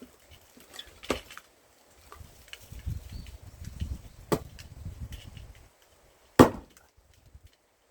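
A large forged axe chopping into knotty pine firewood: three sharp chops, the last the loudest.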